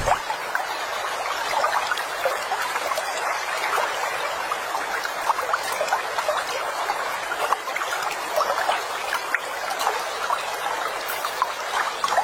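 Water running and trickling steadily, with many small splashes and drips.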